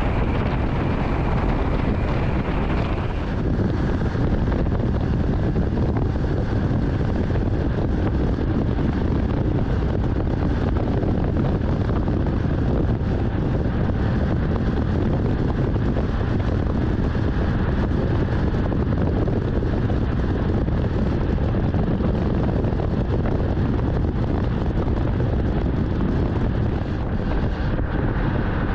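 Wind rushing over the microphone of a motorcycle on the move, a steady loud noise, with the engine running underneath.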